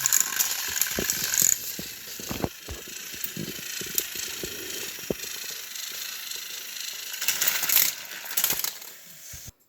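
Small motorised toy train engines and their trucks clattering along plastic track: irregular clicks and rattles over a hissing whir, louder for a second or so near the end, then cutting off suddenly.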